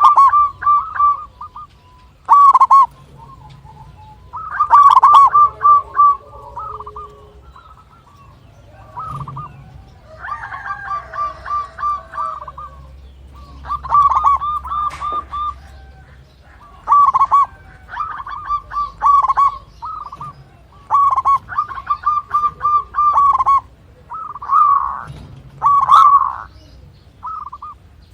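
Zebra dove (perkutut) cooing: a string of short phrases of fast, staccato pulsed coos, separated by brief pauses.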